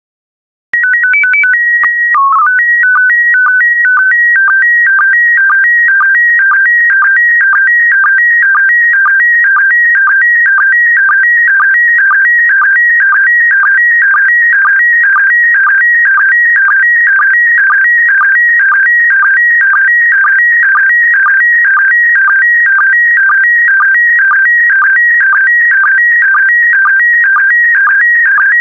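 Slow-scan TV signal in PD120 mode starting about a second in: a calibration header of a steady high tone, a brief lower blip and a quick run of stepped code tones, then the image data as a warbling, chirping run of tones that repeats about twice a second.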